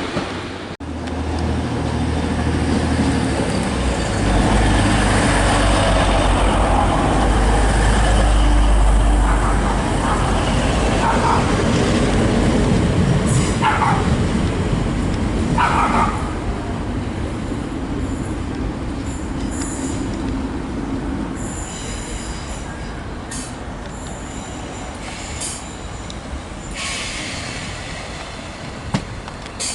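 A train running through a station with a heavy low rumble that builds over the first ten seconds and then slowly fades, with two brief high squeals around the middle.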